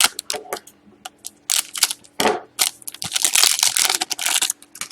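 Trading cards and plastic being handled at close range: a run of sharp clicks and crinkly rustling, thickest about three seconds in.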